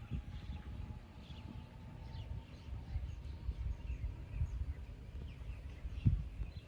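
Faint, short bird chirps scattered over a low rumbling outdoor noise, with one loud thump about six seconds in.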